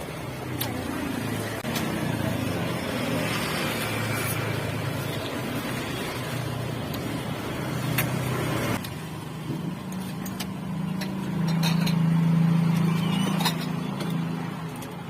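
Motor vehicles running and passing on the road, a steady low engine hum that swells for a couple of seconds in the second half, with a few sharp clicks.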